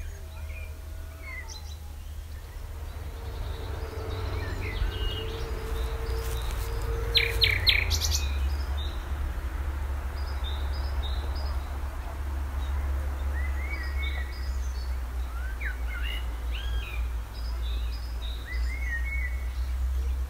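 Small songbirds chirping and calling in the trees, short high chirps scattered throughout, over a steady low rumble; a few sharp clicks about seven seconds in.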